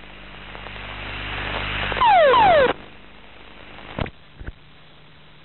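Cockpit recording during a jet ejection: a rush of noise building over about two seconds, then a loud burst carrying two quick falling tones for under a second, then two sharp clicks about four seconds in.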